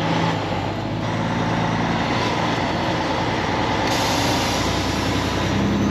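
Kenworth W900 semi truck's diesel engine and road noise, a steady drone while driving, with the hiss getting brighter about four seconds in.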